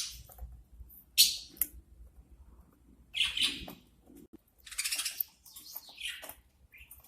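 Budgerigar chirping in about five short, high bursts, the last one falling in pitch.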